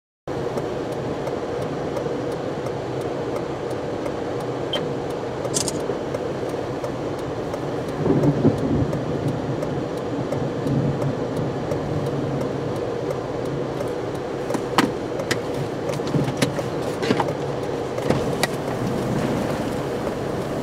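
Steady vehicle noise with a constant hum and wind rumble, starting abruptly. It is louder for a moment about eight seconds in, with scattered sharp ticks and taps later on.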